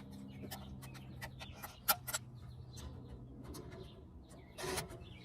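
Scattered light clicks and taps of hand work on metal fittings as the TXV sensing bulb clamp is fastened to the suction line, with a sharper double click about two seconds in and a short scrape near the end. Under it a steady low hum stops about three and a half seconds in.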